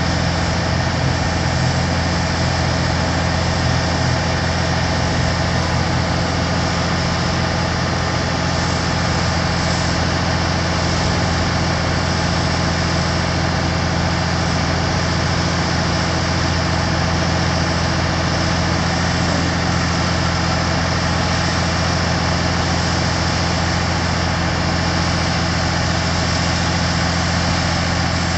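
Diesel engine of a Kenworth T300 truck idling steadily.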